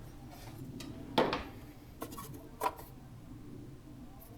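A few sharp metallic clinks of hand tools on metal, the loudest about a second in, as a mount is being loosened under the car.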